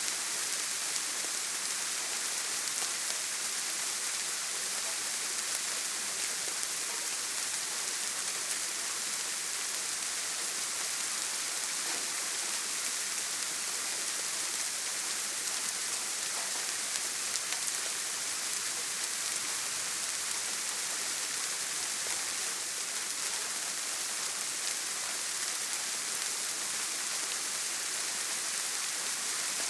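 Steady heavy rain falling on a tin roof: a dense, even hiss with fine drop ticks.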